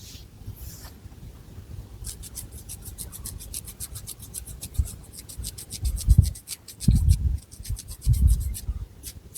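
Long fingernails scratching through thick hair on the scalp in quick, even strokes, about ten a second, starting about two seconds in. Three low thumps in the second half are the loudest moments.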